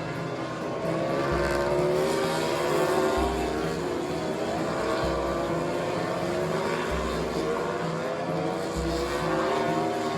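Racing motorcycle engines running at high revs, their pitch wavering up and down, over background music with a slow, regular bass pulse.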